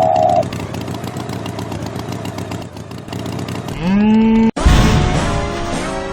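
A steady engine-like rumble, then a cartoon cow's moo that rises in pitch and holds for about a second, followed by music after a brief cut-out.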